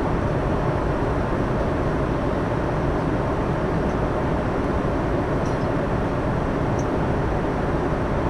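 Steady cabin roar of an Airbus A340-300 at cruise: engine and airflow noise, even and unchanging, with a few faint ticks.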